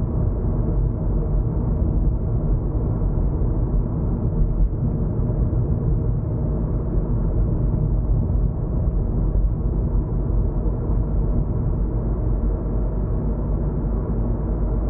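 Steady low rumble of a car driving, heard from inside the cabin: tyre and road noise with a faint engine drone, no sudden events.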